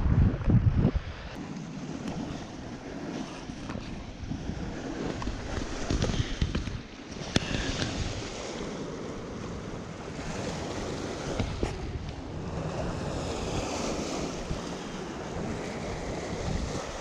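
Wind buffeting the microphone beside open water, in uneven gusts that are strongest in the first second, with a couple of sharp light clicks.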